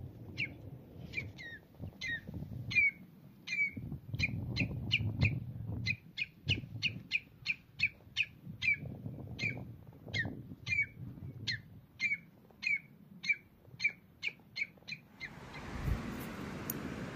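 A bird calling over and over, short sharp chirps that fall quickly in pitch, about two or three a second, stopping about fifteen seconds in. After that, a steady hiss with one low thump near the end.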